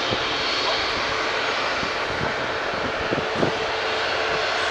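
Jet airliner engines running, a steady rushing noise with a faint held whine through it.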